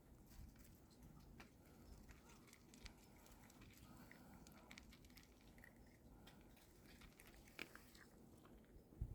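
Near silence with faint, scattered short clicks and ticks, and one louder click near the end.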